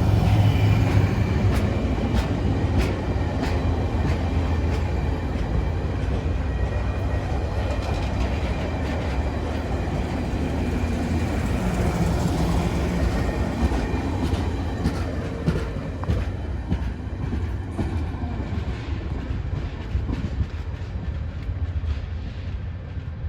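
A train passing on the rails with a steady rumble and wheels clicking over the track joints. The sound eases off over the last several seconds.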